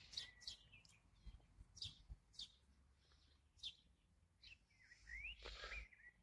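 Faint high bird chirps: short, quick falling cheeps every second or so, then a louder rising call near the end.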